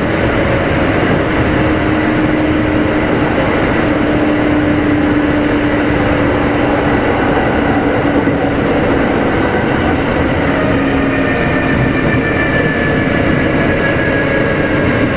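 Running sound inside a Kintetsu 2610 series motor car: steady wheel and rail noise under the floor, with motor and gear whine tones that slowly fall in pitch as the train slows toward a station.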